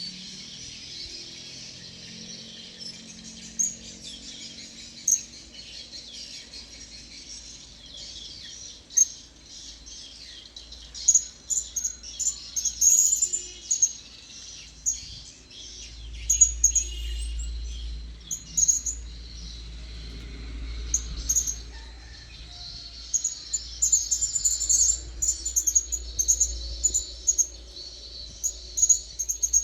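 Blue-crowned hanging parrots (serindit) calling: short, high chirps, scattered at first, then coming in quick flurries about a third of the way in and again through the last part, over a steady high hiss.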